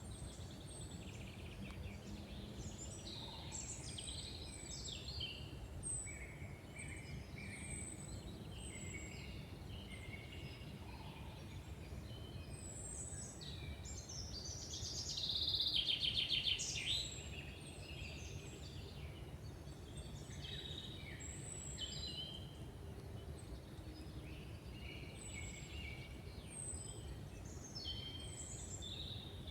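Several songbirds singing in woodland, with short thin high notes repeating every second or two, over a steady low rumble. About halfway through, a louder, rapid trill lasts for about two seconds.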